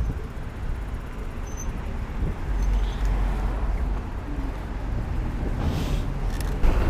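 Road traffic noise on the move: a steady low rumble of vehicles and road, growing suddenly louder near the end.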